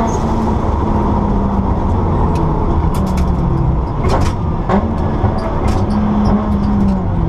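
Rally car engine heard from inside the cabin, running hard with its pitch stepping up and down between gear changes and falling near the end as the car slows. A few sharp clicks and knocks come about three to five seconds in, over a steady road rumble.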